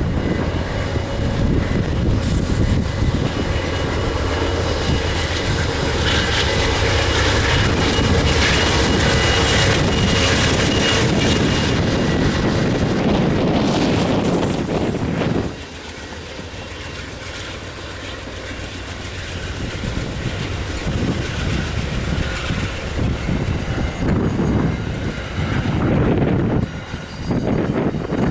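Amtrak passenger train running past, its wheels clicking over the rails amid loud rushing noise. The train sound cuts off suddenly about halfway through, leaving gusty wind on the microphone that grows again near the end.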